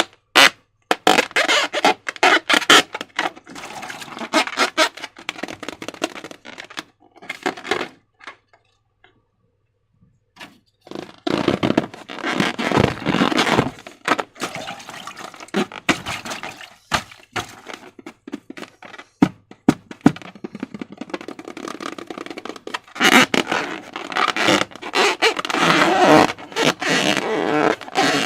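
Slime being squished and worked by hand: wet squelching with dense runs of sharp crackling clicks, stopping for a couple of seconds about a third of the way in, then resuming.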